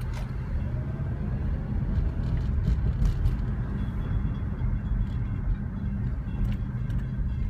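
Long Island Rail Road M7 electric multiple-unit train running past, a steady low rumble with a few sharp clicks.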